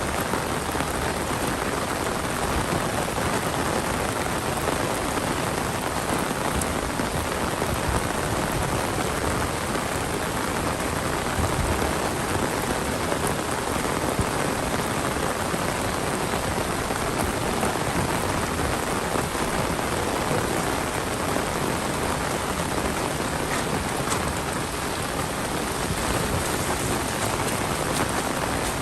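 Heavy monsoon rain pouring down steadily, a dense even hiss of drops on surfaces.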